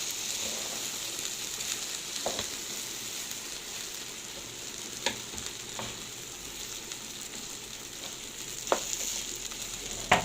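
Rice and lisan al-asfour (bird's-tongue pasta) sizzling steadily as they are sautéed in a pot and stirred, with a spoon knocking against the pot about five times.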